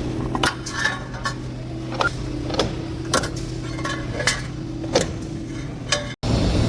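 Light metallic clinks and knocks, roughly one every half second to a second, over a steady machine hum. The sound breaks off abruptly about six seconds in.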